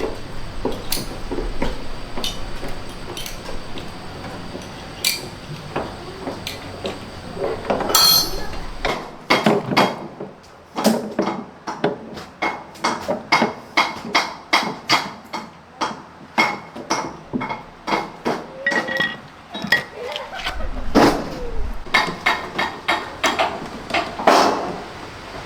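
Hand tools knocking and clinking against metal parts in repair work, in irregular taps that come thick and fast from about nine seconds in.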